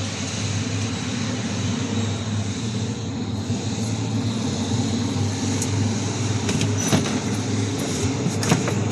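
A motor vehicle engine idling with a steady low hum, with a few light knocks near the end.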